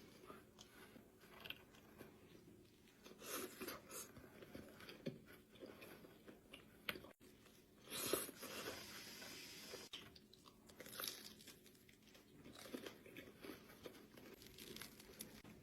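Pizza being eaten close to the microphone: crisp crust crunching in several bites, with chewing between them. The loudest crunching bite comes about halfway through.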